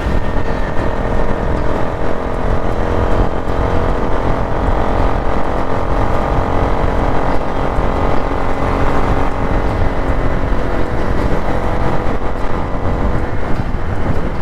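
Bajaj Pulsar NS200's single-cylinder engine running steadily at highway cruising speed through an aftermarket full-system exhaust, mixed with rushing wind on the microphone.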